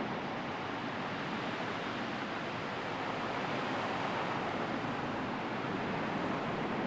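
Sea surf: a steady rushing wash of waves with gentle swells and no distinct breaks.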